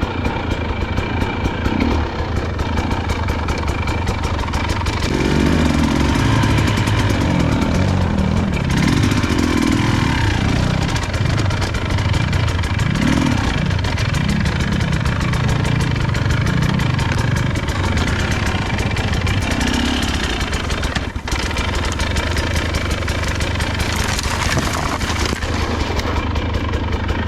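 Motorcycle engine running at idle, with the revs rising and falling repeatedly for a stretch in the middle before settling back to a steady idle.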